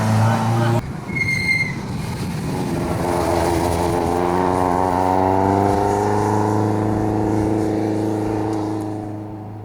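Historic rally car passing at speed, its engine note climbing and then slowly falling as it fades away. A short high-pitched squeal comes about a second in.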